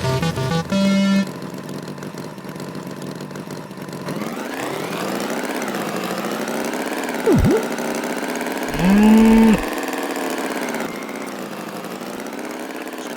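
Cartoon tractor engine running steadily, its pitch wavering up and down, with a quick swooping sound effect about seven seconds in and a loud bull's moo about nine seconds in. A few musical notes end in the first second.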